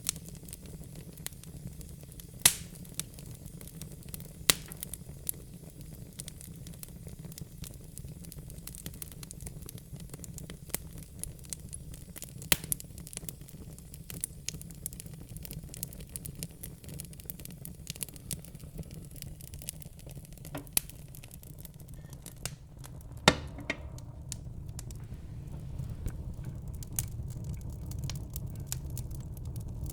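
Wood fire burning in a fireplace: scattered crackles and pops over a steady low rumble of the flames, with a handful of louder pops, the sharpest about 23 seconds in. The low rumble grows a little louder near the end.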